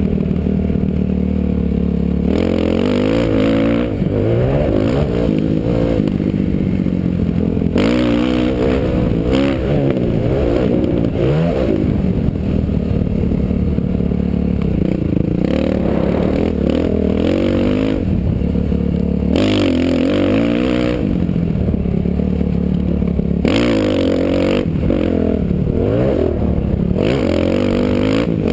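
Dirt bike engine being ridden hard, revving up and easing off again and again, heard through a helmet-mounted camera. Rushes of wind noise on the microphone come and go several times.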